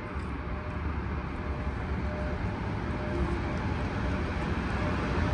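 Passenger train pulled by an electric locomotive approaching along the platform, a low rumbling noise growing steadily louder as it nears.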